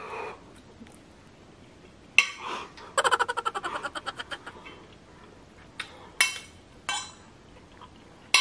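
A metal fork clinking and knocking against a ceramic plate in several sharp strikes, with a fast rattling run of clicks about three seconds in.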